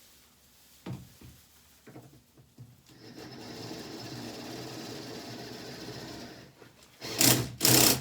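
Impact driver driving a screw into an air conditioner's ceiling panel: a couple of light clicks, then a steady whir for about three seconds, then a loud burst of impact hammering near the end as the screw tightens.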